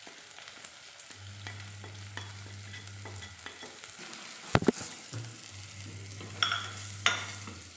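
Onions, tomatoes and chillies frying in oil in a clay pot with a soft sizzle, while chilli and turmeric powder are tipped in and stirred with a plastic spatula. A sharp double knock comes about halfway through, and the spatula scrapes against the pot twice near the end.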